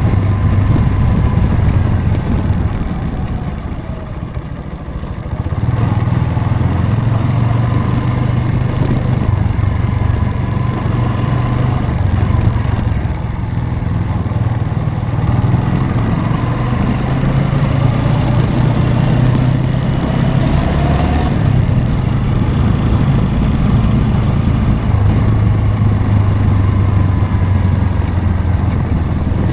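Motorcycle engine running while riding. It eases off about three seconds in and pulls again a couple of seconds later, with the engine note shifting in steps.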